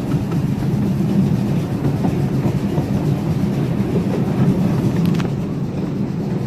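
Riding car of a live-steam park railroad rolling along the track: a steady rumble of wheels on rails, with a few sharp clicks about five seconds in.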